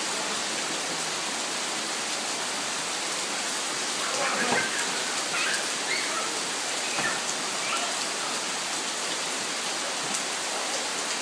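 Steady, heavy rain falling, an even hiss, with a few short, faint high-pitched sounds about midway.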